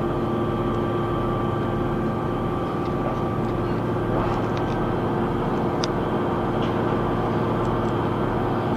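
Class 158 diesel multiple unit running at speed, heard from inside the passenger saloon: a steady drone from the underfloor diesel engine and transmission with a few held tones, over the rumble of wheels on rail, with a few faint ticks.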